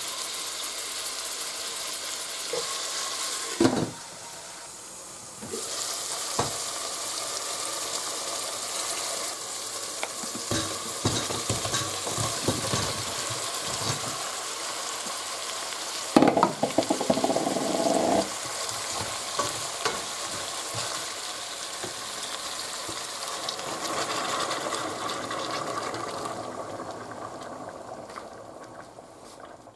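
Onions and cumin seeds sizzling in hot cooking oil in a pan, stirred with scattered scrapes and clicks of a spoon. The sizzle dips briefly about four seconds in, a louder clatter comes about halfway through, and the sizzle fades near the end.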